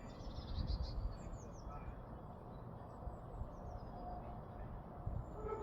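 Small songbirds chirping: a quick run of high chirps in the first second, then short high falling call notes now and then, over a steady low rumble.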